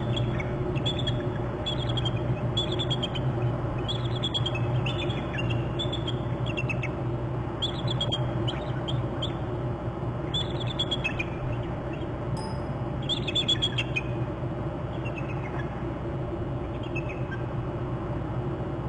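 Bald eagles giving excited, high chattering calls: a long run of short bursts of rapid pulsing notes that drop in pitch, fading out near the end, over a steady low hum.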